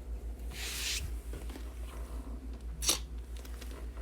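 A brief papery rustle, like a trading-card pack wrapper being torn or handled, about half a second in, then a single sharp click near three seconds, over a steady low electrical hum.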